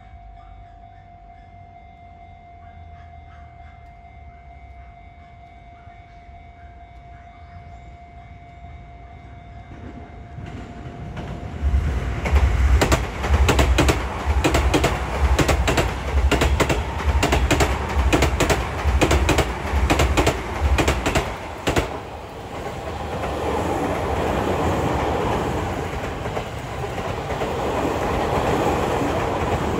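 A Sotetsu Main Line electric commuter train passing close by. After a quiet start with a faint steady tone, the train's sound builds about ten seconds in, then comes about ten seconds of rhythmic clickety-clack from its wheels over the rail joints. This gives way to a steadier rushing that swells and eases.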